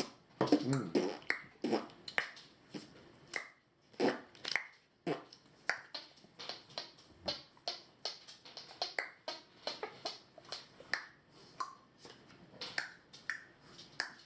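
A long run of sharp snapping clicks, about two a second, some with a short pitched chirp after the snap.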